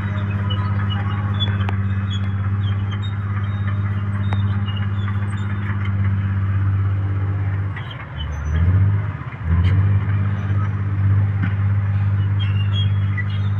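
Mitsubishi dump truck's diesel engine running steadily. About eight seconds in, its pitch drops and climbs back up, then it settles again.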